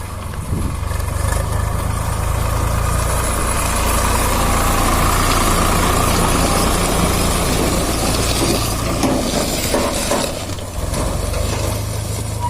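Diesel engine running steadily, growing louder through the middle and easing off near the end.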